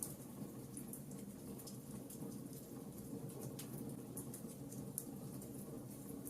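Wood fire crackling: sparse, irregular sharp pops over a steady low rumble.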